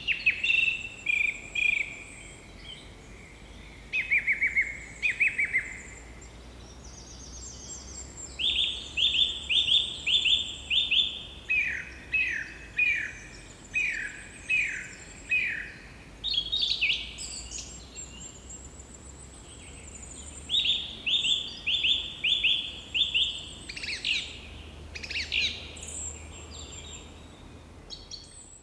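Birds calling in repeated runs of short, quick, downward-sliding notes, several a second, with thinner high-pitched notes above them.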